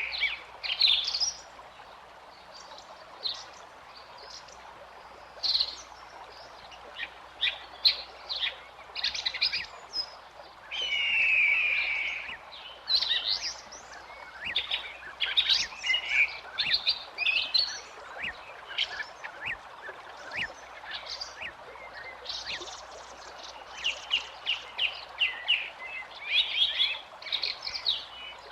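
Songbirds singing and calling, with short chirps, trills and longer warbled phrases coming in bursts all through, over a steady background hiss.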